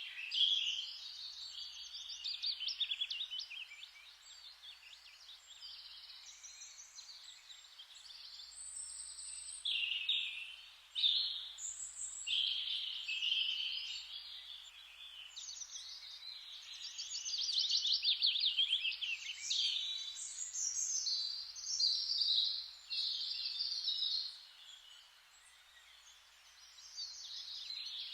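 Several birds singing together in a forest chorus: overlapping chirps and fast trills that come and go in phrases of a second or two, over a faint steady hiss.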